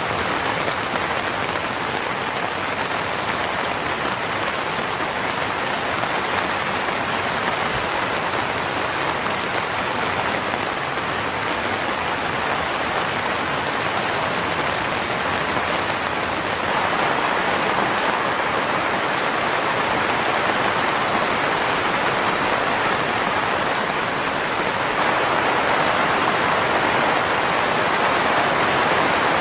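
Steady rain falling, an even dense hiss, growing slightly louder about two-thirds of the way through and again near the end.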